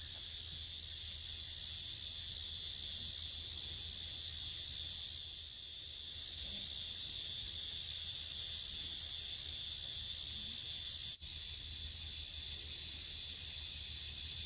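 Outdoor insect chorus: a steady high shrill buzz, with bursts of faster, higher trilling coming and going over it. It breaks off for an instant about eleven seconds in.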